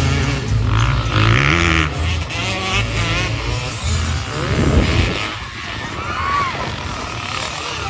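Motocross bike engines running loud, with pitch shifting up and down.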